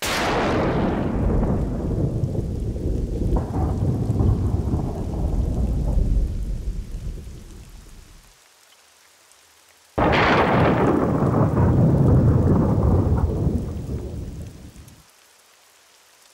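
Two claps of thunder: each begins with a sudden crack and rolls into a long low rumble that fades away, the first lasting about eight seconds and the second starting about ten seconds in.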